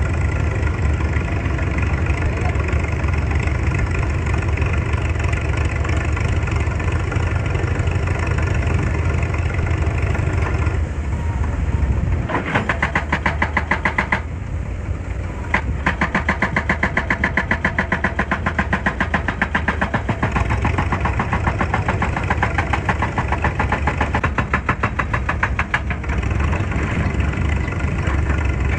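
Excavator diesel engine running steadily. About twelve seconds in, a rapid, regular clattering starts over it; it breaks off briefly and then runs on for about ten seconds before stopping.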